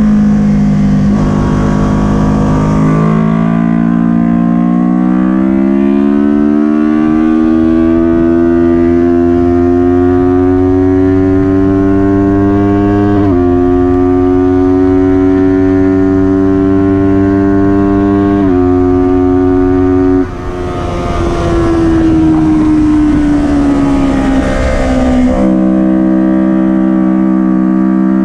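Kawasaki Ninja 400 parallel-twin race engine under hard acceleration, its revs climbing steadily with quick upshifts about 13 and 18 seconds in. About 20 seconds in the throttle snaps shut, then opens again, and the revs wind down with further gear changes near the end.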